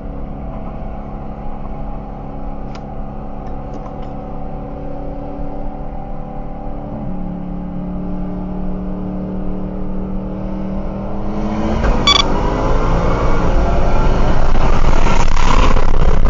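Car engine running at steady revs, then accelerating hard from about eleven seconds in, its pitch rising as it gets much louder.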